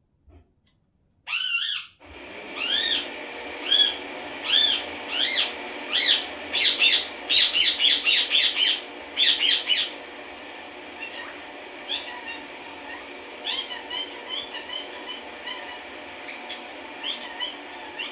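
A small animal giving repeated short, high, arched calls, quickening to a rapid run in the middle and then coming fainter and more scattered, over a steady background hiss.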